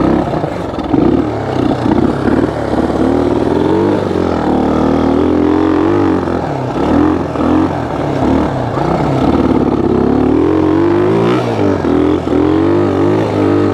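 1974 Honda XL175's single-cylinder four-stroke engine being ridden, revving up and falling back again and again as the throttle is worked.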